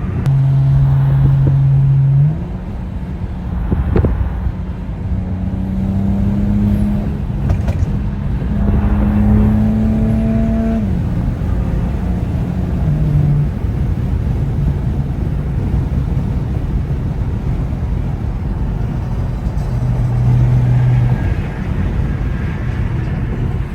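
BMW 335i E92's straight-piped N55 turbocharged inline-six, driving at a steady drone. The pitch climbs gently for several seconds under acceleration, then drops about halfway through, with a couple of sharp knocks early on.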